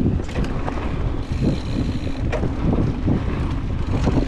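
Wind rushing over an action camera's microphone as a mountain bike rolls fast over a dirt trail, with short rattles and knocks from the bike over bumps.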